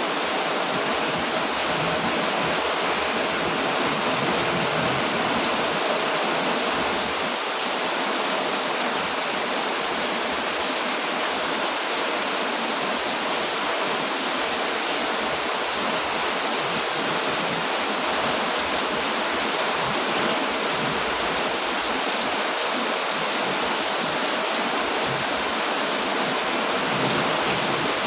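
Heavy rain pouring down steadily, a constant, even hiss with no breaks or thunder.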